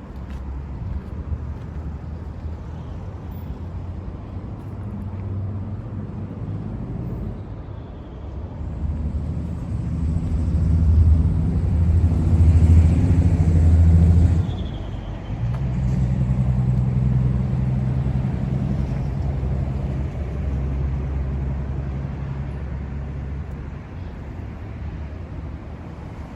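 Honda GB350S air-cooled single-cylinder engine running through a slip-on muffler: idling, then revved up and held twice, dropping back sharply after the first rise about 14 seconds in and easing back to idle after the second.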